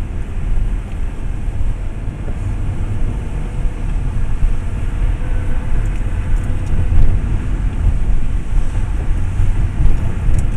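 Car driving along the road, a steady low rumble of tyres and engine heard from inside the cabin.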